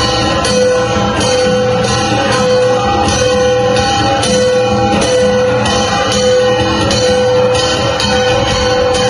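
Gangsa flat bronze gongs played as an ensemble in Cordillera dance music: ringing metallic tones struck in a steady repeating pattern.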